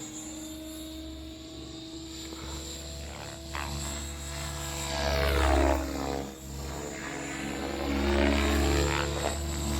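XL Power 550 electric RC helicopter flying 3D aerobatics: a steady rotor and motor whine whose pitch sweeps up and down with the manoeuvres, getting louder around five and eight seconds in.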